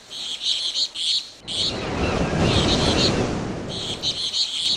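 Birds chirping in repeated high bursts, joined about a second and a half in by a steady low rushing noise.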